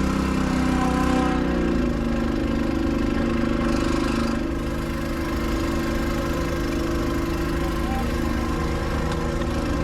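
Small gasoline engine running steadily just after finally starting; its note changes about two seconds in and then holds steady.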